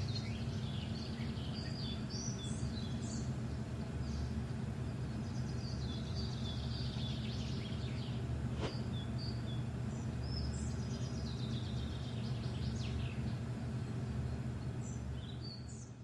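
Birds chirping, with repeated short chirps and trills, over a low steady rumble. A single sharp click comes about halfway through, and the sound fades out at the end.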